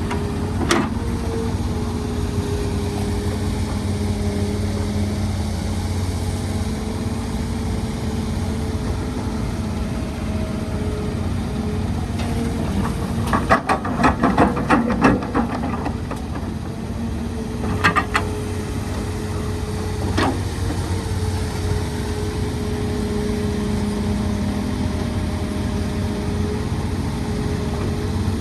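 Heavy diesel engine of an excavator running steadily, its pitch drifting slightly up and down. About halfway through comes a burst of clattering knocks, followed by two more single knocks a few seconds later.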